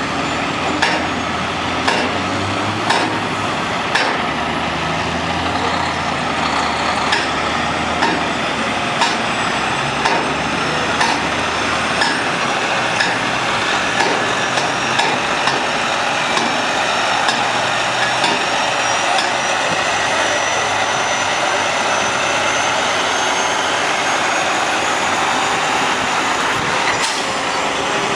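Heavy oilfield truck's diesel engine running steadily, with sharp knocks about once a second through the first half. A faint high whine rises slowly in the second half.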